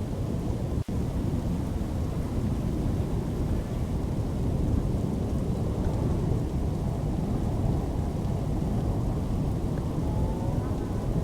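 Steady low rumble of a severe storm, wind and rain, with a brief dropout about a second in.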